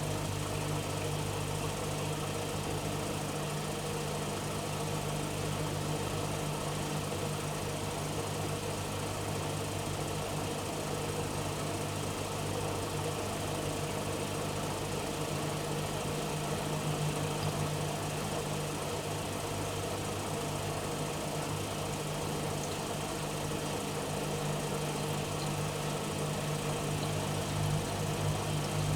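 AEG Öko-Lavamat 85769 front-loading washing machine running mid-cycle with a steady, unchanging hum.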